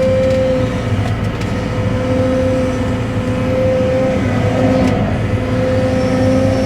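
Cat 313 excavator running steadily, its diesel engine under a steady whine, with a couple of faint knocks.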